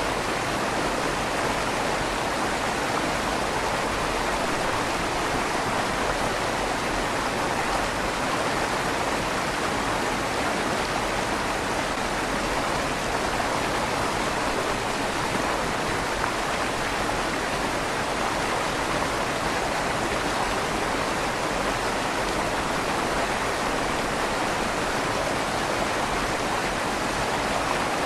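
River water flowing steadily under a stone bridge, a continuous even rush with a slight echo off the inside of the stone tunnel.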